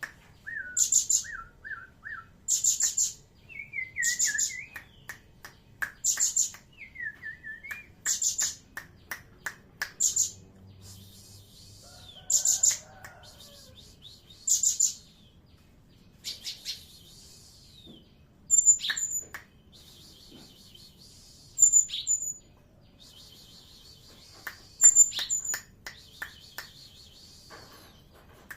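Cinereous tit (gelatik batu) calling: loud, short, high chirps in bursts every second or two, with lower warbled whistles between them in the first several seconds.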